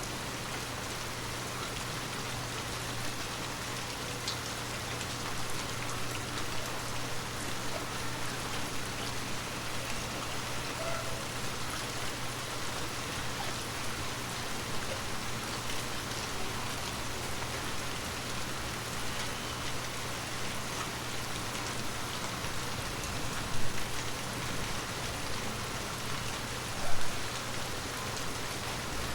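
Heavy rain falling steadily, a dense even hiss of drops, with two brief louder hits near the end.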